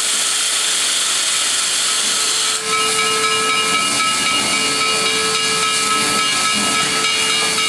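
Steam hissing steadily from 2-8-0 Consolidation steam locomotive #734, joined about two and a half seconds in by a steady whistling tone that holds on over the hiss.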